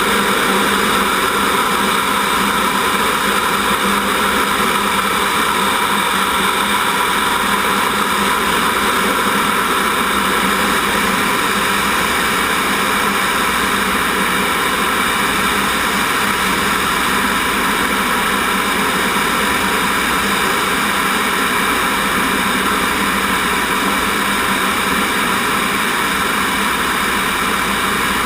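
Steady jet noise inside the cockpit of a T-38 Talon, from its twin General Electric J85 turbojets: a dense, even hiss with steady whining tones that does not change.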